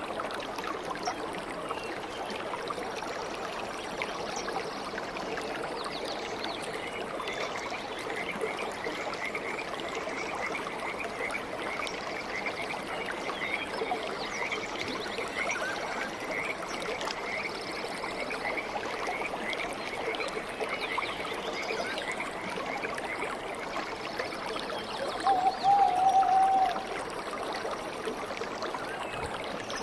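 Stream water flowing with a steady trickling and gurgling. Through the middle a fast, repeated chirping trill runs over the water, and near the end a single short call rises briefly above it, the loudest sound.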